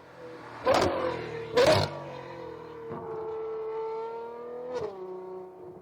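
Ferrari 812 Superfast's V12 engine through a Novitec straight-pipe exhaust, accelerating hard: two loud sharp cracks about a second apart, then a steady engine note that climbs slightly and drops in pitch near the end.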